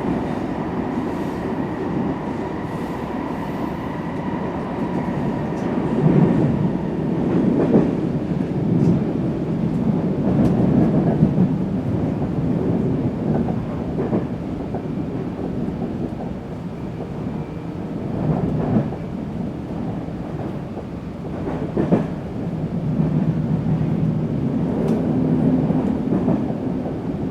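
Metro train running on the rails, a steady rumble with a thin whine at two pitches in the first few seconds that fades away. A few sharp knocks from the wheels stand out through the rumble.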